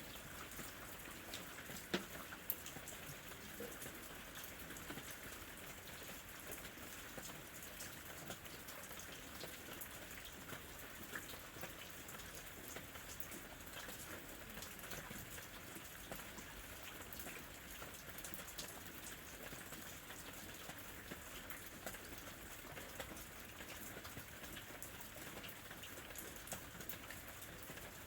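Steady rain falling, heard as a soft hiss with many separate drop hits; one sharper drop hit stands out about two seconds in.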